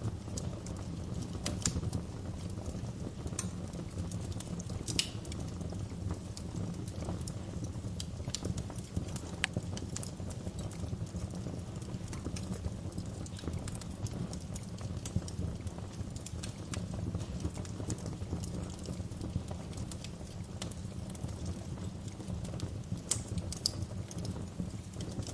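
Wood fire burning in a fireplace, with a steady low rumble and scattered sharp crackles and pops throughout.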